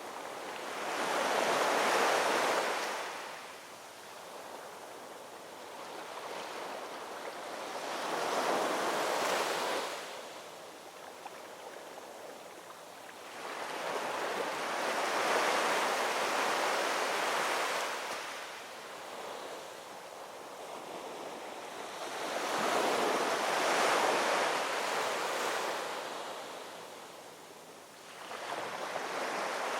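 Ocean waves rolling in and washing up on the shore, each surge of surf swelling and fading, about one every six or seven seconds.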